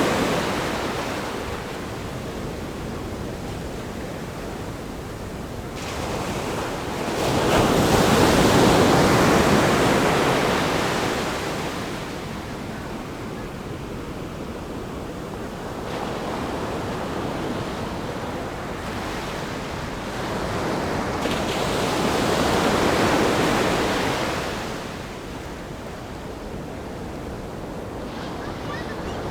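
Ocean surf breaking on a sandy beach and against a rock groin: a steady wash that swells and eases in surges every several seconds, the loudest wave coming about a quarter of the way in.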